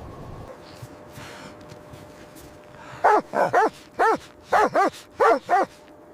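A dog barking: eight short, high-pitched barks in quick groups of two or three, starting about three seconds in.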